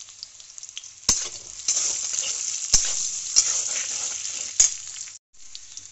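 Green banana and potato pieces frying in hot oil in a kadai, stirred with a metal spatula. The sizzle swells loud about a second in as the pieces are turned, with three sharp clinks of the spatula against the pan, then falls back to a soft sizzle near the end.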